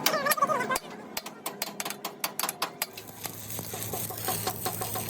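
A rapid run of sharp taps or knocks, about five a second, which stops about three seconds in. A steady low hum follows, with faint repeated chirps over it. A voice is heard briefly at the start.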